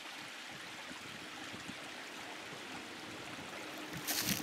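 Small stream of spring meltwater running steadily, an even rushing babble, with a brief louder noise near the end.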